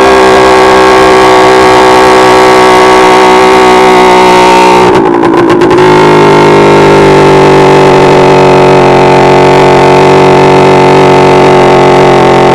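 Simson SR2 moped's tuned two-stroke engine running at steady high revs under way. About five seconds in the note breaks off briefly, then settles at a steady pitch again, as with a gear change or a short lift of the throttle.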